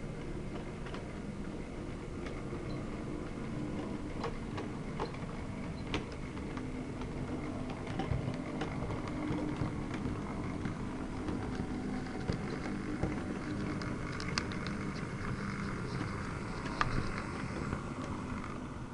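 OO gauge model diesel locomotive running along the track: a steady motor hum with scattered clicks of the wheels over the rail joints, fading down at the very end.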